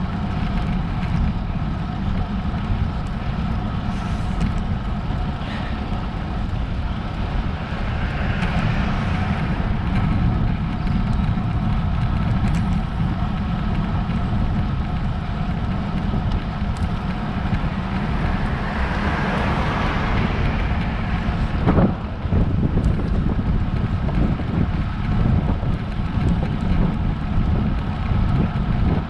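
Wind rumbling steadily over a road bike rider's camera microphone during a climb, with a faint steady whir above it. Two longer swells of noise come up around 8 and 19 seconds in, and a sharp click comes about 22 seconds in.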